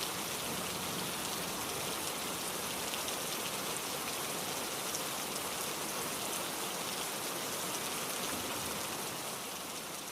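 Heavy rain falling steadily, a dense hiss of drops pattering on surfaces, beginning to fade out near the end.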